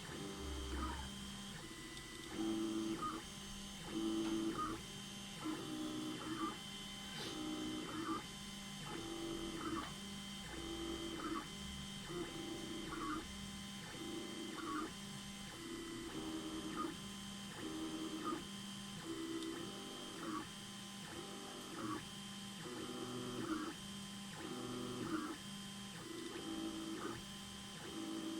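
Stepper motors of an Anet A8 3D printer converted to a pen-plotting CNC, whining in a long run of short moves as it draws, with a steady faint electrical hum underneath.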